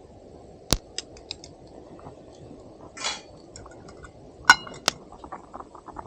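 Camp cookware being handled: a sharp knock about a second in, a short rustle around three seconds, and a ringing metal clink of pot or utensil a little after four seconds, followed by small light ticks.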